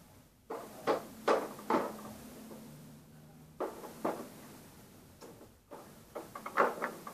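Plastic dolls and a toy car being handled, giving a series of short clicks and knocks: about four in the first two seconds, two more a little later and a quick cluster near the end.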